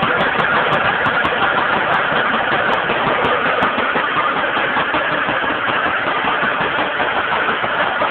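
SZD motorized carriage's single-cylinder two-stroke engine running steadily.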